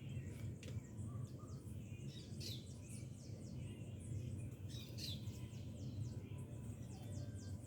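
Wild birds chirping and singing, in runs of quick, high, falling notes, over a steady low hum.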